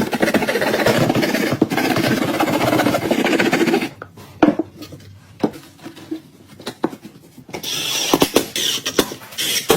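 Hand tools working on drywall: about four seconds of continuous rasping scrape, then scattered taps and knocks, then a higher, hissing scrape near the end.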